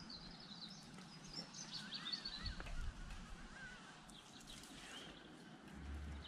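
Small birds chirping and twittering faintly over quiet outdoor ambience, with a low rumble near the end.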